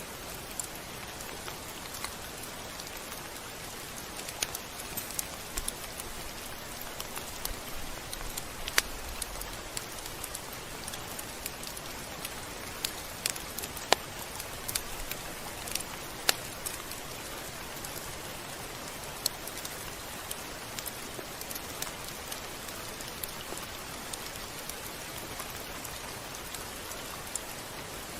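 Steady rain falling on a surface: a constant hiss with scattered sharp ticks of single drops.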